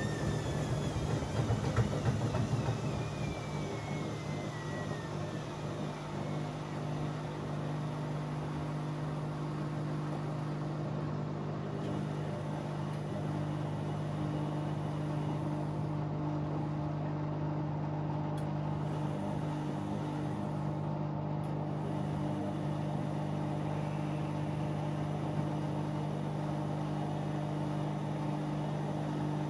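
Bauknecht WA Aquaton 1400 washing machine running mid-cycle with a steady low hum. A whine falls in pitch over the first five seconds, as the drum motor slows.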